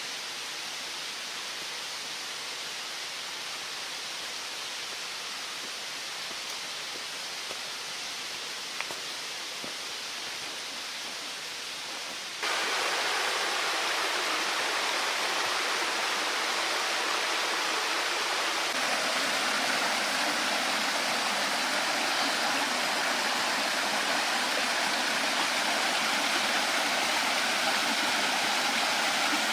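Steady rushing noise with no distinct events, jumping abruptly louder about twelve seconds in.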